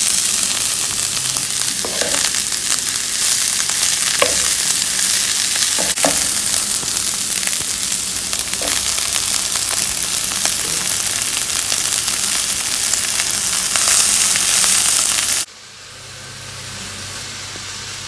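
Shredded cabbage and green beans sizzling as they stir-fry in hot oil in a frying pan, with a wooden spatula scraping and knocking in the pan now and then. Near the end the sizzle drops suddenly to a much quieter level.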